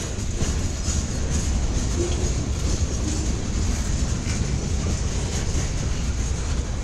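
Freight cars of a long mixed-freight train rolling past, wheels clacking over the rails over a steady low rumble.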